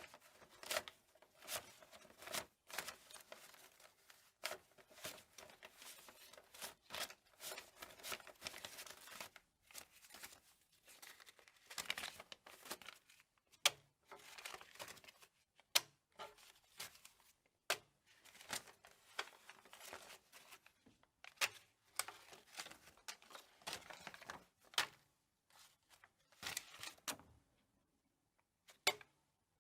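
Paper banknotes being counted, with crisp, irregular snaps and rustles as notes are flicked past one another, a few a second with brief pauses.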